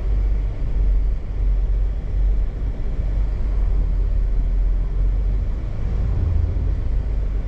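Steady low rumble of a car heard from inside its cabin, with no distinct events standing out.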